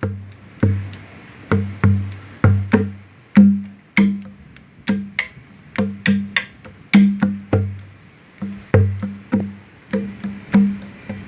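Conga drum with a goat-skin head played by hand in a loose, uneven rhythm of about two strikes a second. Deep ringing open tones are mixed with sharp, bright slaps.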